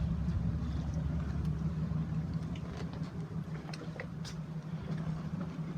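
A steady low mechanical hum with a few faint clicks around the middle.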